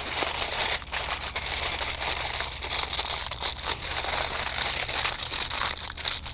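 Aluminium foil crinkling and rustling as it is folded and pressed around food by hand.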